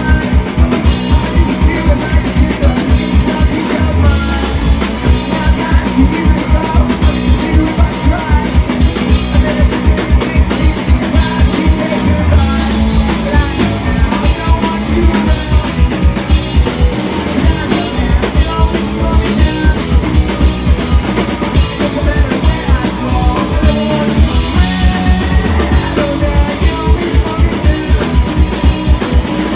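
Live rock band playing loudly, with drum kit and bass driving a fast, steady beat.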